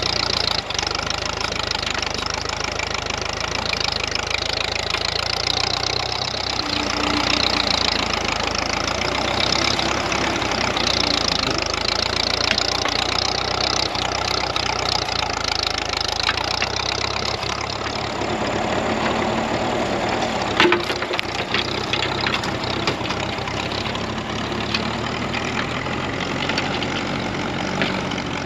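1954 Ferguson TEA20 tractor's four-cylinder petrol engine running steadily as the tractor is driven, with a single sharp knock about two-thirds of the way through.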